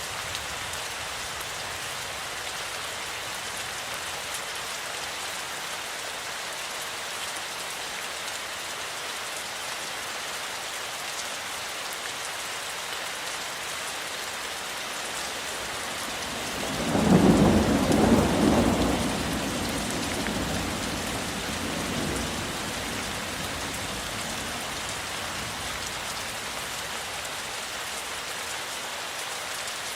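Steady rain falling, with a clap of thunder rolling in a little past halfway and rumbling away over several seconds.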